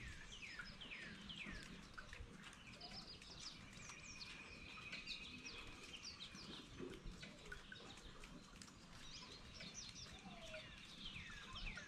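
Faint birdsong from several birds: many short chirps and falling whistles, overlapping through the whole stretch, over a low background rumble.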